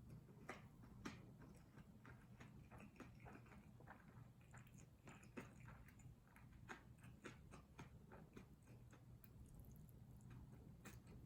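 Faint close-up chewing of kimchi fried rice: many soft, irregular mouth clicks and smacks.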